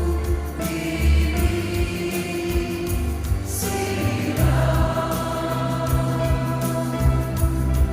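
Music: a choir singing long held notes over a deep sustained bass, the chord changing about four seconds in.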